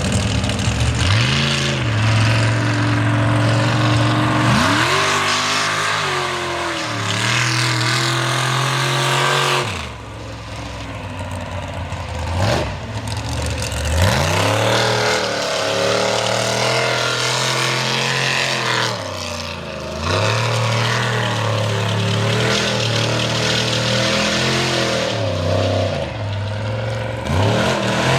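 Mega truck engine revving hard over and over, its pitch climbing and falling back every few seconds, with a couple of brief lulls where it drops off the throttle.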